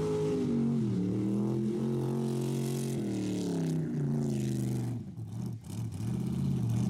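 Rat rod car engine running and being revved, its pitch falling and rising with the throttle, easing off briefly about five seconds in before picking up again.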